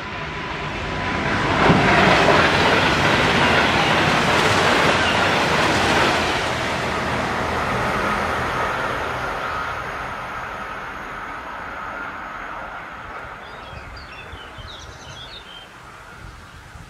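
DSB rubber-nosed express passenger train running through the station at about 168 km/h: the rush of its wheels on the rails comes up fast, is loudest about two seconds in, and fades away slowly over the rest. A few bird chirps come through near the end.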